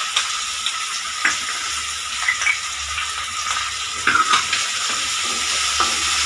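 Onions and capsicum with sauce sizzling in hot oil in a steel kadai, stirred with a wooden spatula. Steady sizzle, with occasional scrapes and knocks of the spatula against the pan.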